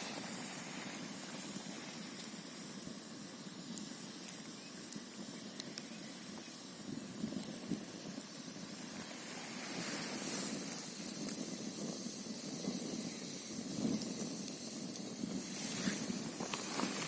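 Campfire burning, with a few sharp crackles and pops over a steady rushing hiss of wind and a flowing mountain stream.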